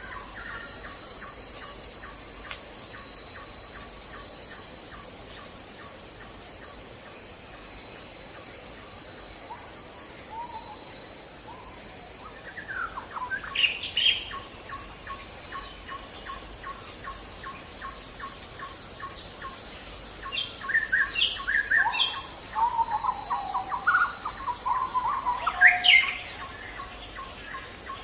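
Birds chirping and calling over a steady high drone of insects, with a short repeated note ticking along about two or three times a second. The bird calls come in louder flurries near the middle and again toward the end.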